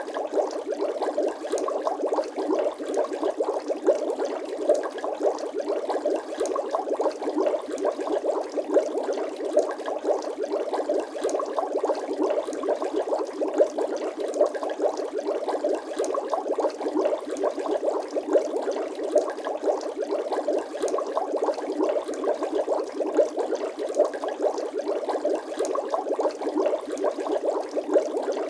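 Bubbling water sound effect: a steady, dense stream of small bubbles gurgling and popping, with frequent brief louder pops.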